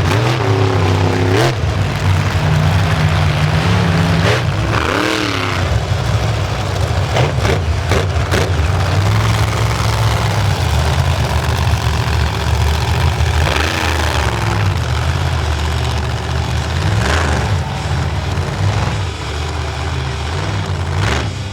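Big monster truck engines running loud and steady, with blips of revving about a second in, around five seconds in and again around fourteen seconds in.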